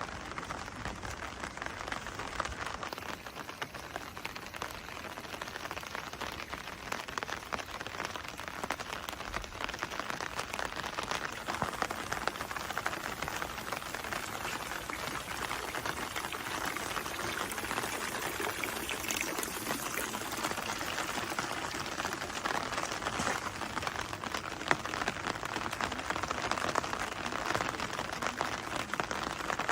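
Steady rain falling, a dense patter of many small drops hitting nearby surfaces, growing slightly louder toward the end.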